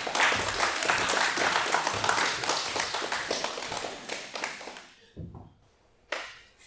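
Audience applauding, the clapping dying away about five seconds in, followed by a single thump near the end.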